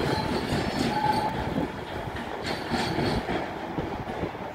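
Passenger train passing on the track, its wheels clattering over rail joints, the clatter easing off after the first second or two.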